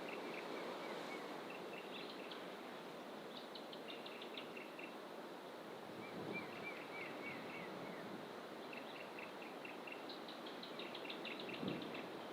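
Several wild birds calling in fynbos bush: repeated runs of short, rapid high chirps, and about halfway through a brief series of falling whistled notes. Underneath runs a steady rushing background noise.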